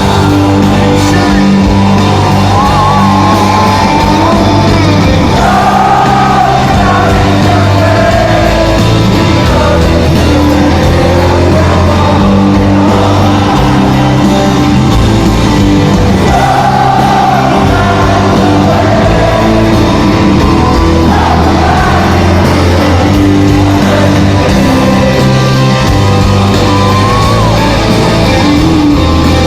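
Live rock band playing loudly through a hall's PA, with a sung melody over guitars and drums, and the crowd shouting and singing along.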